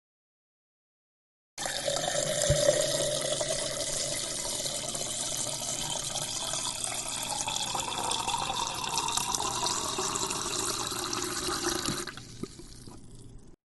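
Water running from a tap, filling a sink or container. It starts about a second and a half in, runs steadily for about ten seconds, then drops to a quieter trickle near the end before stopping.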